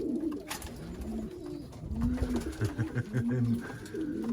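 Racing pigeons cooing, several low, rolling coos one after another and overlapping.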